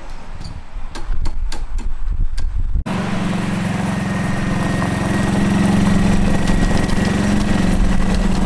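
Wind rumbling on the microphone with a few sharp clicks. After an abrupt cut about three seconds in, a gas Club Car golf cart's small engine runs steadily.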